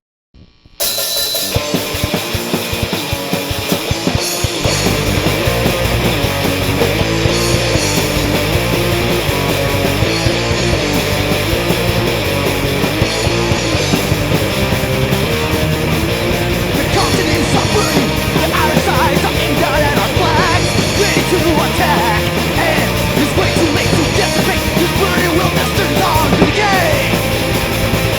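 A loud punk rock song played by a band with distorted guitars. It starts abruptly about a second in, and the low end fills in at about four seconds.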